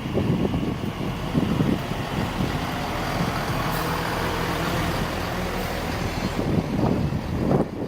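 A train's engine or motors humming steadily, with gusts of wind buffeting the microphone.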